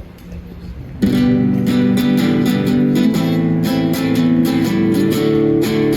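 Acoustic guitar strummed in a steady rhythm, playing the instrumental introduction of a song. It starts loudly about a second in, over low street noise.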